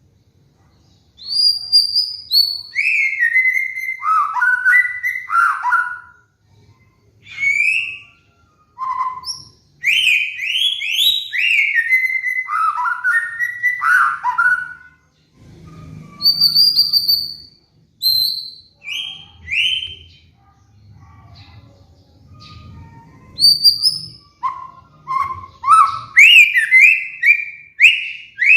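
White-rumped shama (murai batu) singing loud, varied whistled phrases of clear notes, many sliding downward, separated by short pauses.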